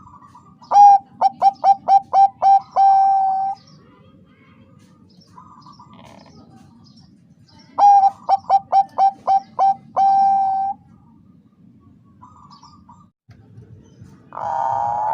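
Zebra dove (perkutut bangkok) cooing: two phrases, each a quick run of about seven short clipped notes ending in one longer held coo. A rougher, rapidly pulsing sound starts near the end.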